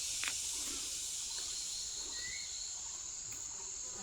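Outdoor rural background with a steady high-pitched hiss, a faint click just after the start and a brief chirp about two seconds in.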